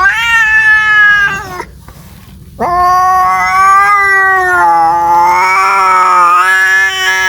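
Domestic cat caterwauling: a yowl of about a second and a half that sweeps up in pitch at its start, then after a short pause a long drawn-out yowl that wavers up and down in pitch.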